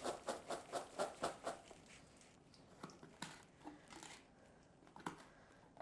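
Popped popcorn being tossed in a container to coat it with olive oil: a quick run of faint rustling shakes, about four a second, for the first second and a half, then a few scattered soft rustles.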